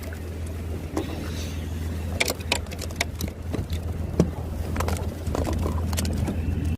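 A steady low hum, with scattered short knocks and clicks over it.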